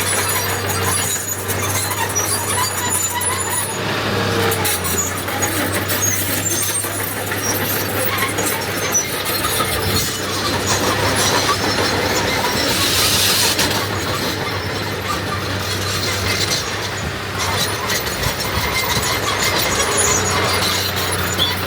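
Diesel earth-moving machinery working, with a steady low engine hum under a clattering mechanical din. Short high squeaks come and go throughout.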